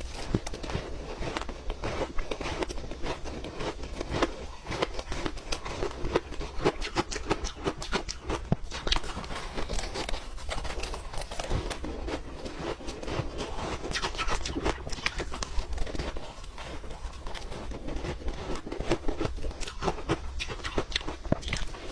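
Ice being chewed and crunched close to the microphone: a continuous, irregular run of sharp cracks and crunches over a faint steady low hum.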